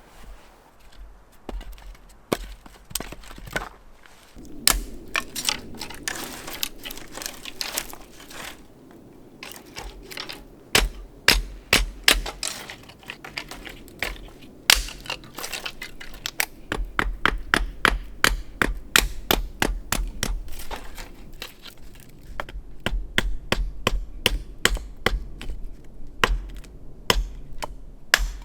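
Dry wood cracking and snapping in many sharp cracks, some in quick runs of several a second, over a crunching, crinkling rustle.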